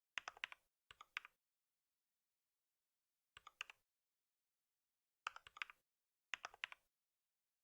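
Computer keyboard typing in five short bursts of a few keystrokes each, with dead silence between the bursts.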